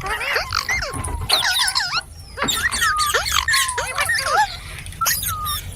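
Pet green parrot chattering and squawking: a rapid run of short calls that sweep up and down in pitch, with a brief pause about two seconds in.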